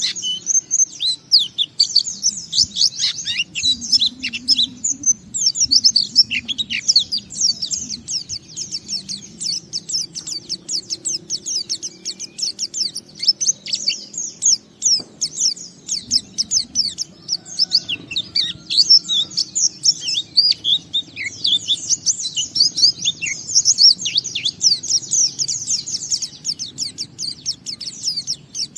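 A pleci (white-eye) singing a long, fast, unbroken twittering song of high chirps, the continuous 'ngalas' style of pleci song.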